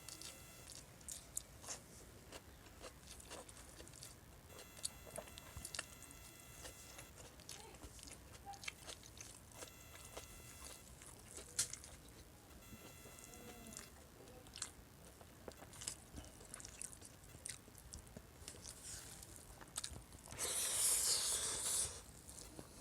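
Close-up eating sounds of paksiw na bangus (milkfish stewed in vinegar): chewing and biting with many small wet clicks and smacks. About twenty seconds in, a louder burst of noise lasts about two seconds.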